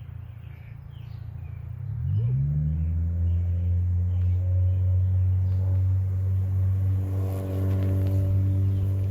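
An engine hum that rises in pitch about two seconds in, then runs at a steady pitch.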